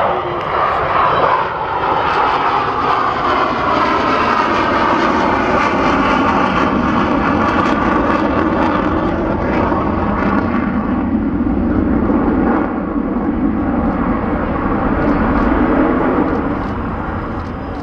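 Avro Vulcan bomber's four Rolls-Royce Olympus turbojets, loud and steady in flight, easing off slightly near the end.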